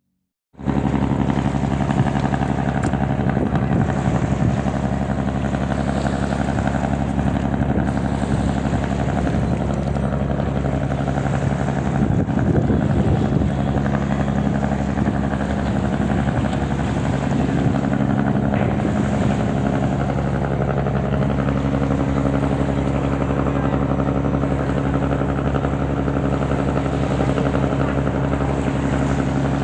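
An engine running steadily at an even speed, its sound cutting in abruptly about half a second in.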